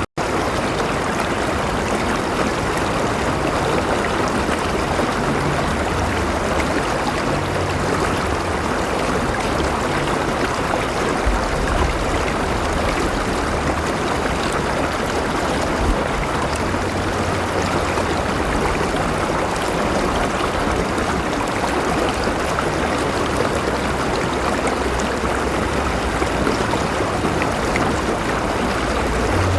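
A river flowing in a steady, even rush of water. The sound cuts out to silence for a split second just after the start.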